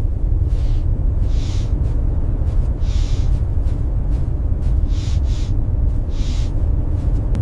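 Steady low rumble of blizzard wind, with five short hissing puffs spaced through it.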